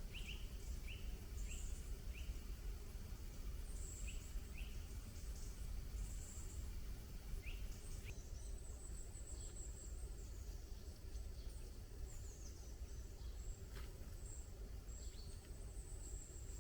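Small birds chirping in woodland: a run of short rising chirps in the first half, then higher, thinner twittering, over a faint low rumble.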